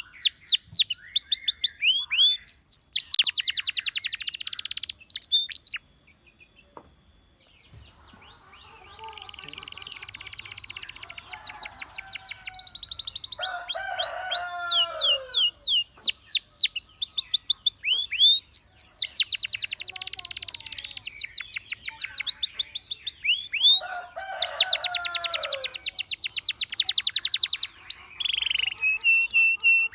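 Canary singing a long song of fast trills and sweeping whistled notes. It breaks off for a second or two about six seconds in, then resumes, with lower falling notes mixed into some phrases.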